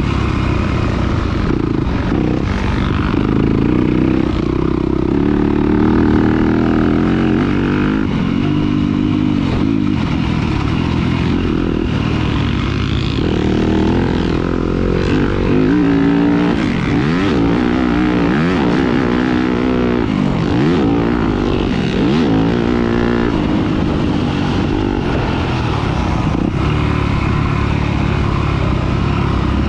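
Motocross bike engine under race throttle, revving up and down continuously as the throttle is opened and closed through the gears, with quick rising and falling sweeps of pitch in the middle of the stretch.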